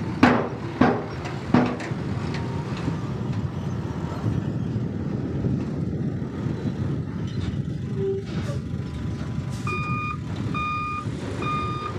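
Heavy diesel construction machinery running steadily, with three sharp bangs in the first two seconds. About ten seconds in, a reversing alarm starts beeping about once a second as a machine backs up.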